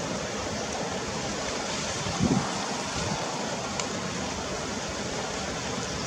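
Steady rushing of river water, with a short low thump about two seconds in.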